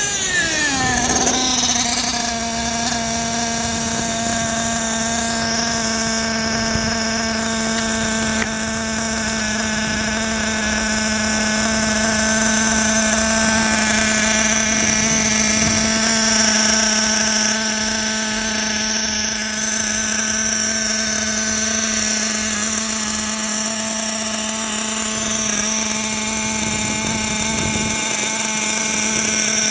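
RC car motor whining, its pitch dropping about a second in and then holding at one steady note.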